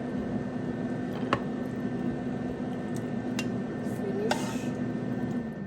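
Steady hum of a kitchen appliance's fan, which stops near the end, with a few light clicks and clinks of utensils or dishes.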